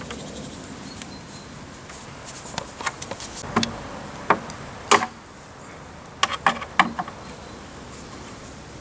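Sharp clicks and knocks of a screwdriver prying at the plastic clips of a tumble dryer's door insert: scattered plastic and metal taps, clustered about a third of the way in and again near two-thirds, the loudest just past the middle.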